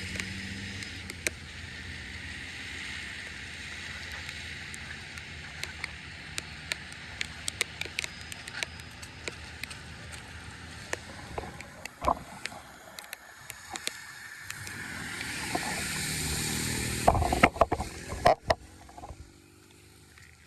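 Water running steadily, with many scattered sharp clicks and a cluster of louder knocks about seventeen seconds in.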